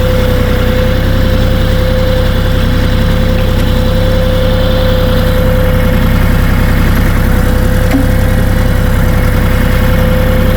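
Kioti 3520HST compact diesel tractor engine running steadily, with a constant whine held at one pitch over the engine hum.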